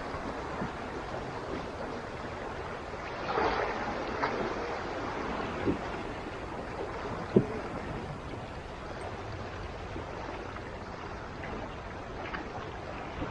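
Water lapping and trickling against a kayak hull, with light wind. A couple of short, light knocks come about six and seven seconds in.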